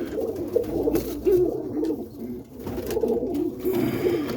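Roller pigeons cooing in the loft, several birds overlapping in a continuous low warbling coo.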